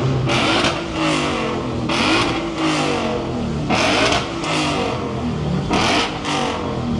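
A modified car's engine revved hard in repeated blips, about four times roughly two seconds apart, the pitch climbing and dropping back each time with a loud exhaust rasp at the top of each rev.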